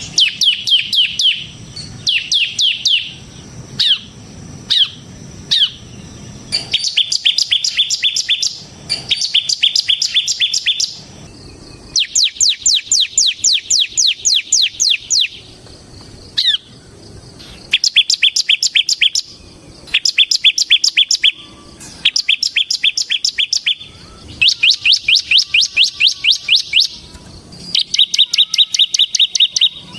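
Bar-winged prinia (ciblek) singing its rapid rattling 'ngebren' song: repeated bursts of quick, sharp, high notes, each burst one to three seconds long with short pauses between. A few single sharp downslurred notes come about four to six seconds in.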